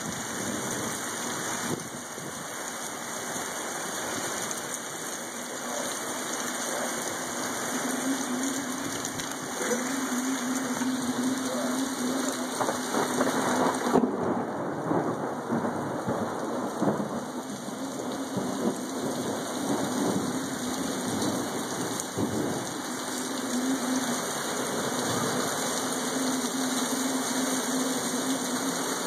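Heavy rain and strong gusting wind of a thunderstorm microburst, a dense steady rush that swells and eases. A low hum rises and fades a few times over the storm noise.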